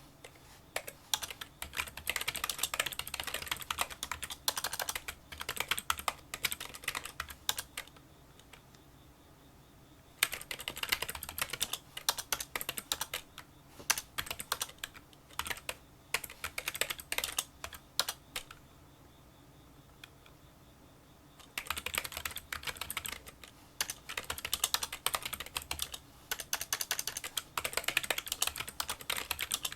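Touch-typing on a Kinesis Freestyle Solo split keyboard with membrane key switches: fast runs of light, small key clicks. The typing stops twice for two to three seconds, about eight and about eighteen seconds in.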